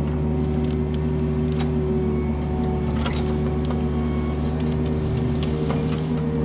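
Kubota KX71-3 mini excavator's diesel engine running at a steady speed, with a few light clicks and knocks over it.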